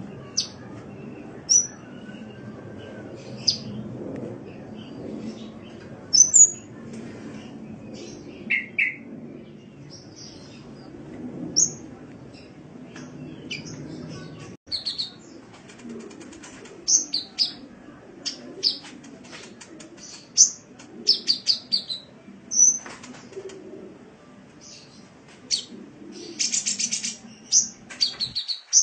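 Sunbird song: short, high-pitched chirps and whistles, spaced out at first and coming thick and fast from about halfway, with a buzzy rapid trill near the end. A low background rumble lies under the first half and stops abruptly.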